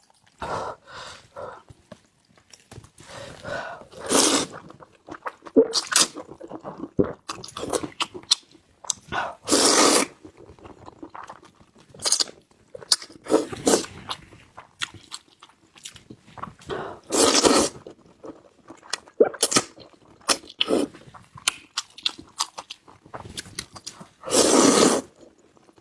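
Close-miked mouth sounds of someone eating liangpi cold-skin noodles: irregular chewing and wet smacking. A few louder bursts of about a second each come at intervals.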